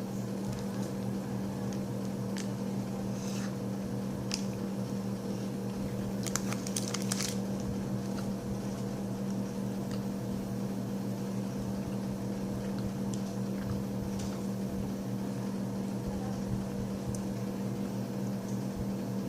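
A person chewing a bite of a Lion Bar (wafer, caramel and crisped rice), with a few faint crunches in the first half, over a steady low hum.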